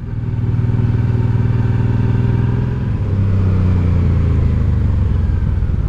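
Honda Deauville 650's V-twin engine pulling the bike along under way, growing louder over the first second, its note shifting about three seconds in, with wind rush.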